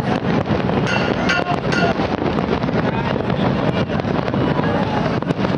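New Year's fireworks display going off: a dense, continuous run of crackles and pops, with wind buffeting the microphone.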